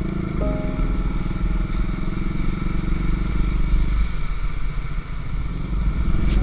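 Honda CB150R's single-cylinder engine running as the motorcycle rides along, a steady low rumble. Music fades out within the first second, and a single sharp click comes near the end.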